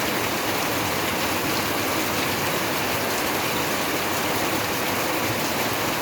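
Steady, heavy rain falling, an even hiss with faint scattered drop ticks.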